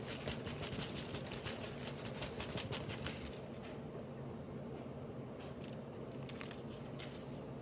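Hand rummaging in a hat to draw the next pick: dense soft rustles for about three seconds, then a few faint ones.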